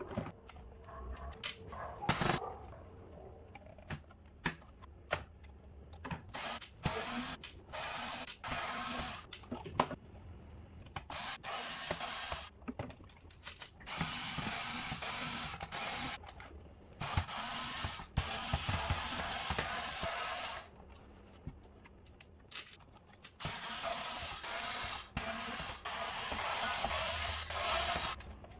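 Hand work on a Pioneer DDJ-400 DJ controller during its disassembly for a fader replacement: scattered clicks and knocks of tools and plastic parts, with stretches of ratcheting, mechanical rubbing noise lasting a few seconds at a time.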